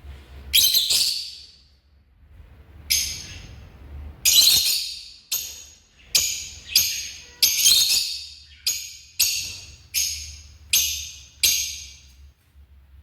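Lovebirds giving a series of about a dozen sharp, shrill calls, each starting suddenly and fading quickly, coming faster in the second half.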